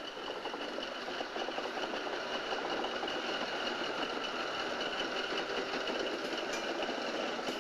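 Diesel locomotive engine running close by with a fast, even mechanical chatter, growing louder over the first second.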